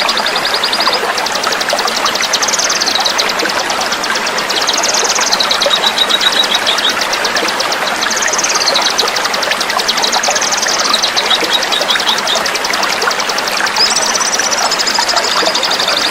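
A small songbird singing a dense, rapid trill of repeated high notes almost without a break, with short sliding phrases between runs, over the steady rush of flowing water.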